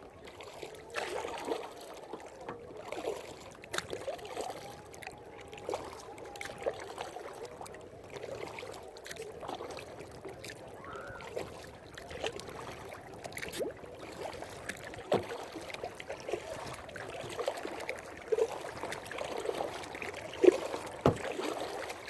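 Kayak being paddled on calm water: the paddle blades dip and splash and water drips off them, with irregular small knocks.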